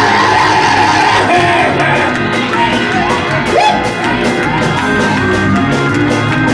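Church band music with a steady drumbeat, with voices shouting and singing over it.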